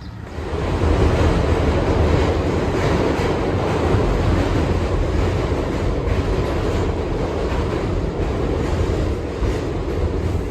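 Train running, with a steady rumble and rushing noise that starts suddenly just after the start.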